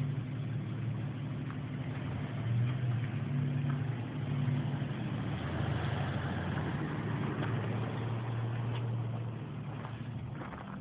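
1992 Jeep Cherokee's engine running as it pulls away towing a boat trailer, its pitch shifting up and down a few times and fading a little near the end.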